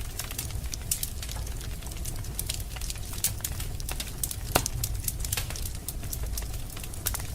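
Wood fire crackling in a fireplace: irregular sharp pops and snaps over a low steady rumble, with one louder pop about four and a half seconds in.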